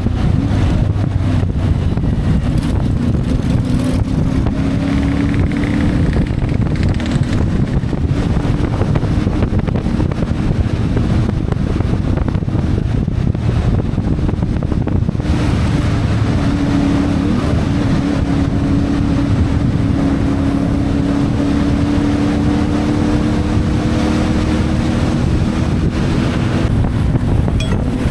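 CFMoto 450MT motorcycle's parallel-twin engine running under way at a fairly steady pace, its note drifting gently up and down, with wind buffeting the microphone.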